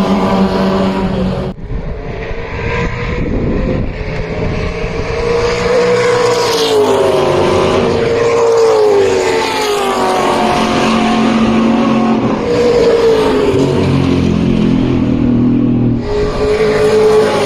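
Historic V8 muscle race car engine heard from on board at racing speed, its pitch rising and falling as it accelerates and slows, with a sharp lift-off and gear change about a second and a half in and another briefly near the end.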